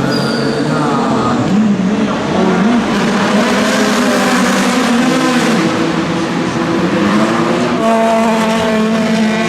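Peugeot 9X8 hypercar's twin-turbo V6 running hard, its pitch rising and falling several times, then holding steady before stepping up near the end. A short high-pitched whistle sounds in the first second.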